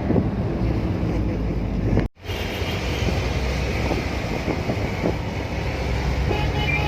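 Steady road noise and engine rumble inside a moving car, briefly cutting out about two seconds in.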